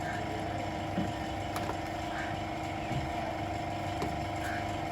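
Steady mechanical hum with a low rumble and a fixed tone, with a few faint clicks about a second and a half apart.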